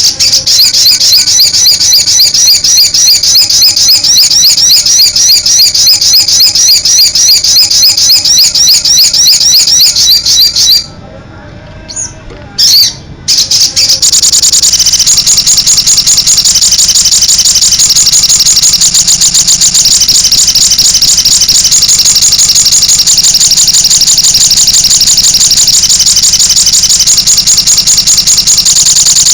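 Little spiderhunter (sogon) song in rapid 'nembak' bursts of high, fast-repeated notes. About 11 s in it breaks off briefly. From about 14 s it resumes as a denser, unbroken high trill.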